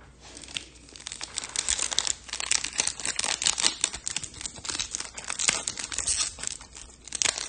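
Foil wrapper of a trading card pack being torn open and crinkled, a dense irregular crackle that starts about a second in.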